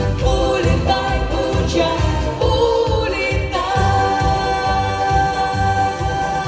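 Pop song sung by a solo male singer over a backing track with a steady beat. About three and a half seconds in, one long note is held.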